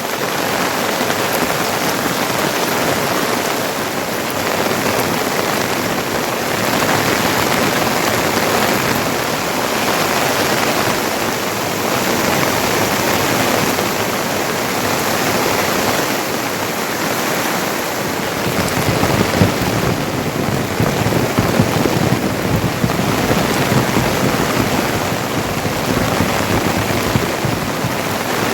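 Heavy rain falling steadily. About two-thirds of the way through, irregular louder drops come in, striking a surface close by.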